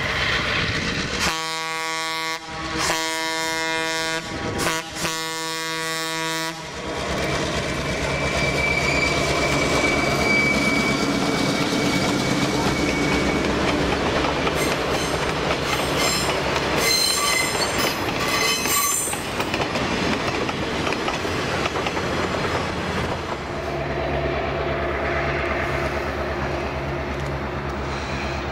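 A locomotive sounds its horn in four blasts, long, long, short, long: the grade-crossing signal. Then a freight train of boxcars and tank cars rolls past with a clickety-clack of wheels over rail joints and high wheel squeal. Near the end a steady engine hum comes in.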